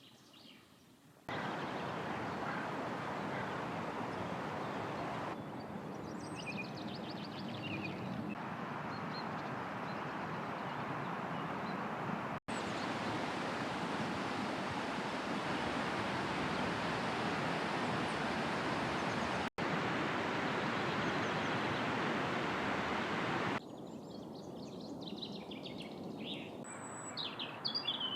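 Several short outdoor bird recordings spliced together. Most of it is a steady rushing background noise. Brief, rapid bird songs come through about six seconds in and again near the end.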